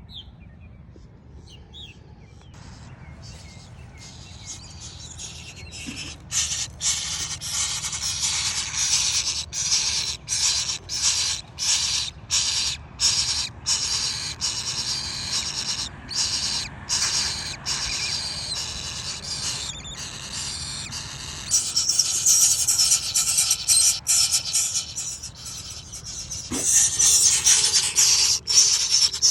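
Loud rubbing and scraping noise close to the microphone, broken by many short gaps, growing louder about two-thirds of the way through and again near the end.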